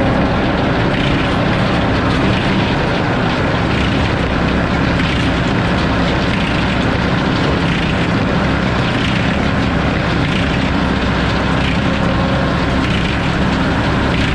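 Circular sawmill's 52-tooth F-pattern inserted-tooth blade sawing through a log: a loud, steady cutting noise over the low hum of the mill's power unit.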